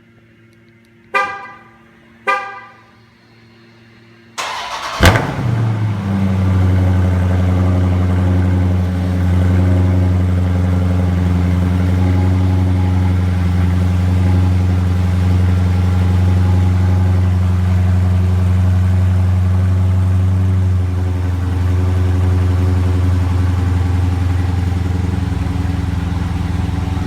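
Two short chirps, then the Dodge Charger Scat Pack's 392 HEMI V8 cranks and catches about four seconds in with a loud flare of revs, settling into a steady, fast cold-start idle. The idle drops a little about twenty seconds in as the engine begins to warm.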